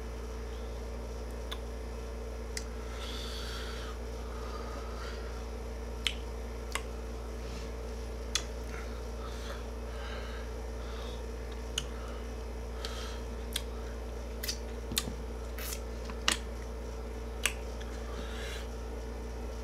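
Eating sounds: chewing with a dozen or so scattered short clicks and smacks, most of them in the second half. Under them runs a steady low hum from a room air conditioner.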